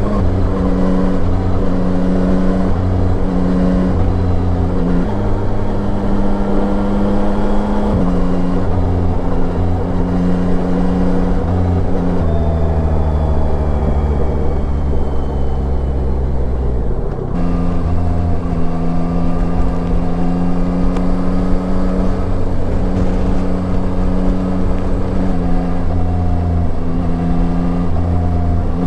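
Yamaha Tracer 9's three-cylinder engine running under way, its pitch shifting up and down in small steps as the throttle changes, with a sudden drop and change in tone about 17 seconds in.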